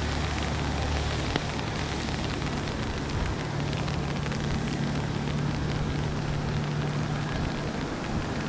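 Boeing 777 jet engines heard as the airliner passes low overhead on its landing approach, a steady rush of noise with a low hum that shifts in pitch about three seconds in, mixed with rain falling.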